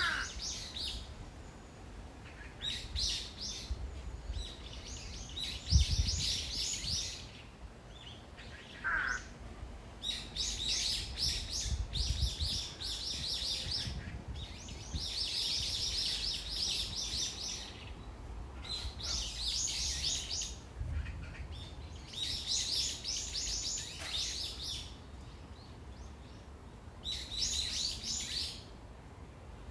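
A songbird singing in repeated bursts of rapid, high chirps, a new burst every two to three seconds, over a low rumble. A dull thump about six seconds in is the loudest sound.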